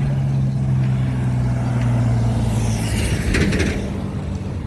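Motor vehicle engine running with a steady low drone that fades about three seconds in, then a brief higher hiss.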